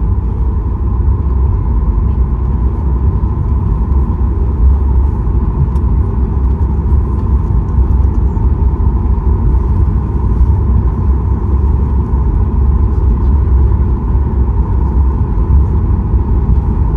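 Boeing 737 MAX 8 cabin noise while taxiing after landing: a steady low rumble from the idling CFM LEAP-1B engines and the rolling airframe, with a thin steady tone above it.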